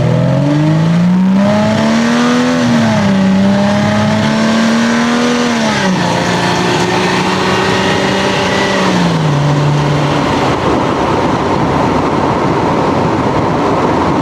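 Lexus GS300's 2JZ straight-six engine and exhaust on the move. The engine note climbs over the first couple of seconds, holds, then drops in two steps, about six and nine seconds in. After about ten seconds the engine tone gives way to a steady rush of road and wind noise.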